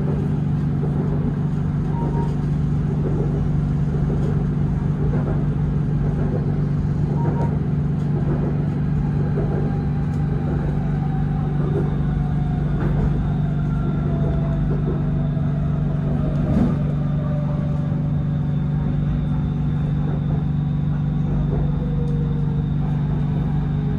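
A BTS Skytrain electric train running, heard from inside the car: a steady low rumble. A faint motor whine falls slowly in pitch over the second half.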